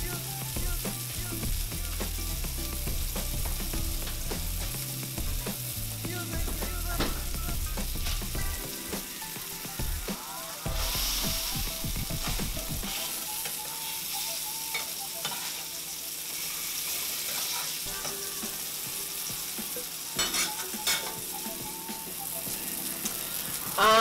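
Sausage patties sizzling in a frying pan, with a spatula scraping and turning them now and then.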